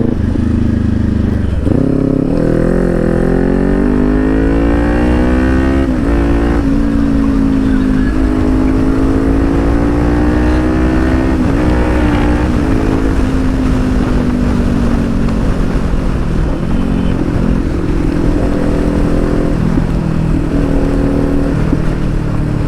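Kawasaki Ninja 400's 399cc parallel-twin through a loud Akrapovic exhaust, under way. The revs climb hard from about two seconds in, then drop at a shift near six seconds and climb again. After that the engine holds a fairly steady pitch, with another brief shift in the middle and some easing and picking up of the revs toward the end.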